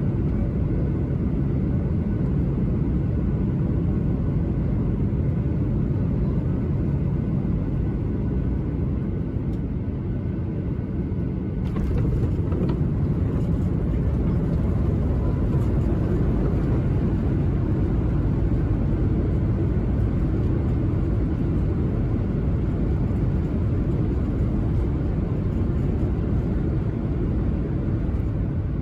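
Cabin noise of a Boeing 737-800 landing: a steady low rumble that jumps about twelve seconds in with a sudden knock, then runs louder with added hiss, typical of touchdown and the roll along the runway.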